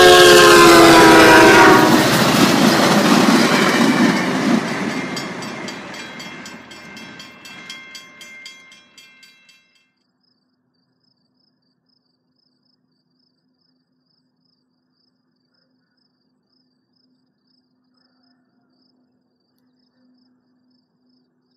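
VIA Rail diesel locomotive sounding its horn at close range, the chord dropping in pitch as it passes and stopping about two seconds in. The passing train's rumble and a ringing crossing bell then fade away over the next several seconds, leaving near silence with faint insect chirping.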